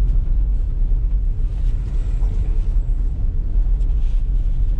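Van driving, heard from inside the cab: a steady low engine and road rumble.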